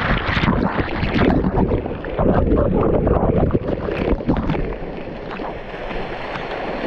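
Loud, uneven rushing noise of wind buffeting the microphone over moving water, with irregular gusty thumps.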